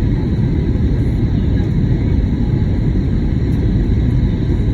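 Airbus A320neo in flight heard from inside the cabin: a steady low rumble of engines and airflow, with a few faint steady tones above it.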